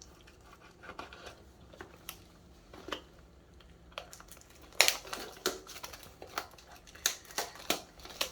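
A trading-card booster box being opened by hand: wrapping crinkling and cardboard rustling and tearing in scattered short clicks and crackles, busier and louder from about five seconds in.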